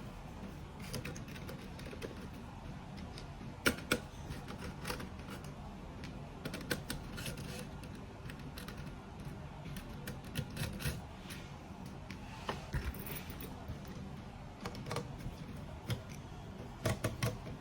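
Irregular small clicks and taps of a T10 Torx screwdriver working small screws out of a fusion splicer's outer cover, with screws and tools set down on the bench now and then.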